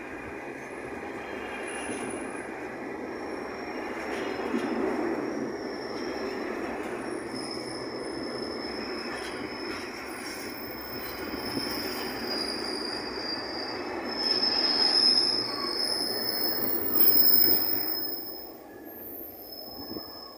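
Container wagons of a freight train rolling past close by: a steady rumble of wheels on rail with a high-pitched wheel squeal, loudest a few seconds before the end. The sound fades near the end as the last wagon passes and draws away.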